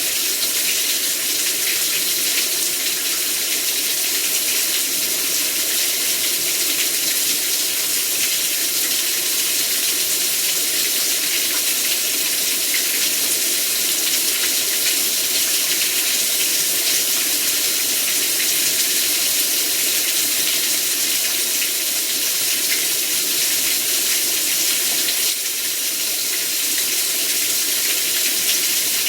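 Heavy rain pouring down, a steady, even hiss of water without letting up.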